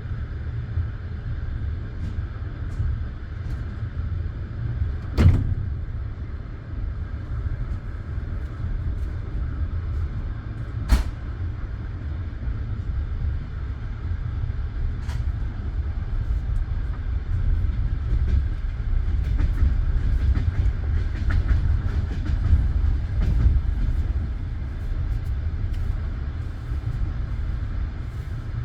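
Passenger train coach running along the track: a steady low rumble of the wheels and car, with a few sharp knocks, the loudest about 5 and 11 seconds in.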